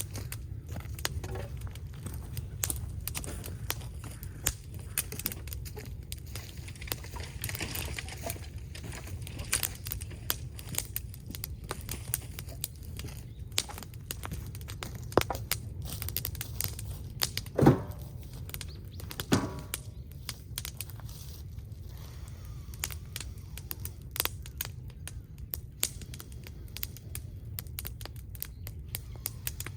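Fire of scrap wood crackling, with irregular snaps and pops over a steady low rumble. A louder pop comes about two-thirds of the way in.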